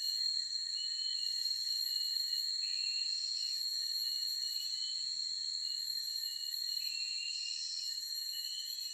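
Forest insect chorus: a steady, high-pitched drone, with shorter warbling calls coming and going underneath every second or two.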